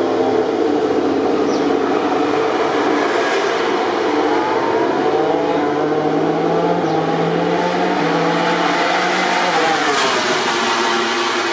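MotoGP racing motorcycle engines at high revs, the pitch climbing as the bikes accelerate and then dropping near the end.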